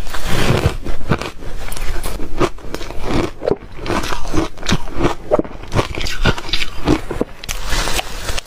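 Ice cubes being bitten and chewed close to the microphone: loud, irregular crunching and cracking, several crunches a second.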